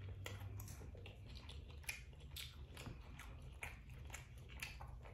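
A person chewing food with the mouth closed: soft, wet mouth clicks and smacks at irregular intervals.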